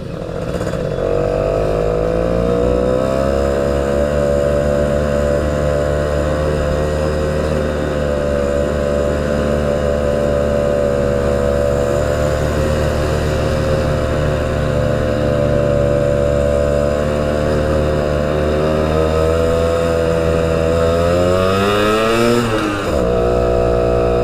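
Motorcycle engine under way, its pitch rising as it pulls away, then holding a steady cruise. Near the end it revs up and drops sharply with a gear change, then steadies again.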